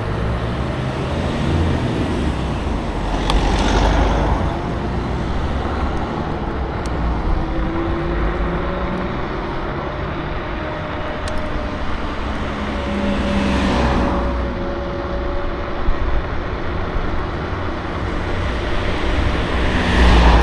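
Riding noise of a KuKirin G2 electric scooter under way: steady rumble and wind noise, with a faint whine that drifts in pitch. Three louder swells of noise come through, about 4 seconds in, near the middle and at the end.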